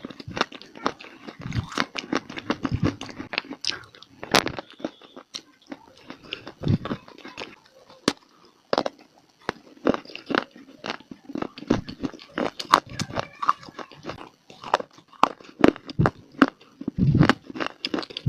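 Close-miked biting and chewing of crunchy baked clay (mitti): irregular sharp crunches, several a second, with a few stretches of duller, denser chewing between them.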